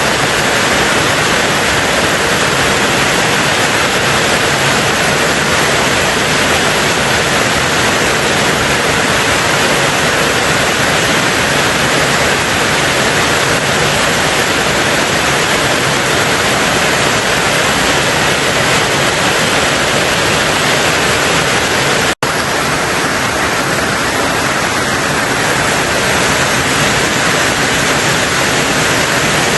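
Steady, dense rain drumming on a tin roof, an even hiss-like wash with no single drops standing out. It drops out for an instant about two-thirds of the way through, then carries on with a slightly thinner sound.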